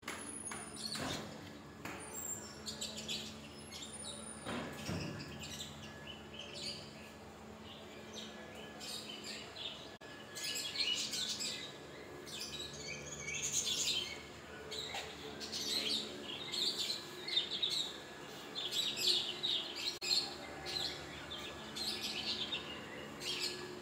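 Small birds chirping and twittering in many quick, high calls, growing busier about halfway through, over a faint steady hum.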